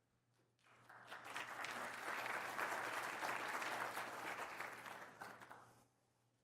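Audience applauding: clapping builds up about half a second in, holds steady, and fades out near the end.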